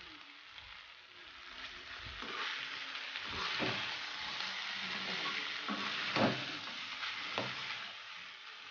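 Mutton sukka (dry-fried mutton) sizzling in a metal kadai as it is stirred with a metal spoon. The spoon scrapes and knocks against the pan several times. The sizzle grows louder about two seconds in, when stirring starts.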